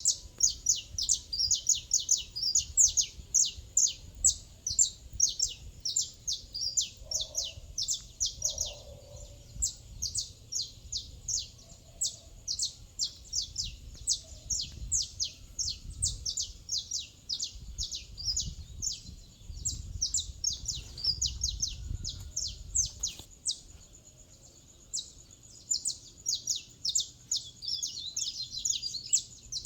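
Morning birdsong: many small birds chirping rapidly in high, short notes that overlap almost without pause, thinning briefly near the end, over a faint low rumble.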